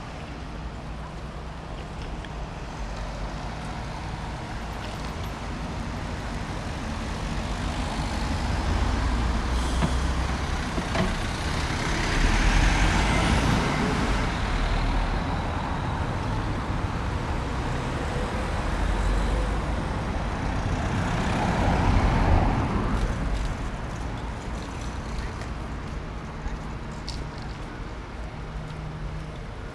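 Road traffic: motor vehicles passing close by, the sound swelling and fading twice, loudest about twelve and twenty-two seconds in.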